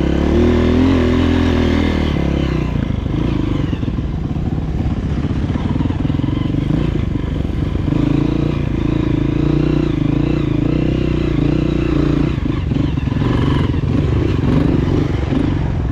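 Dirt bike engine running while riding, its note rising and falling with the throttle, with some clatter over rough ground.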